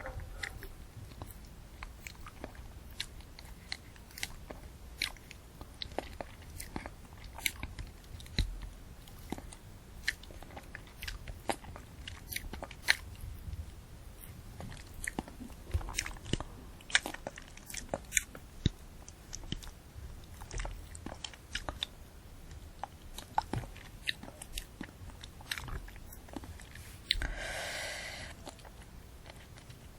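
Close-miked chewing and biting of a candy apple: irregular sharp crunches and cracks of the hard candy shell and crisp apple. Near the end comes a breathy sound about a second long.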